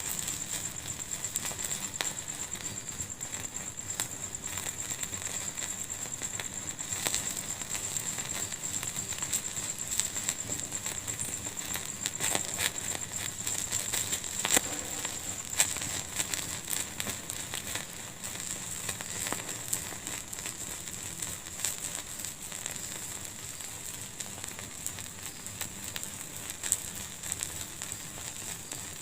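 Fire in a fireplace crackling, with frequent small irregular pops and a few louder snaps about halfway through, over a steady high-pitched hiss.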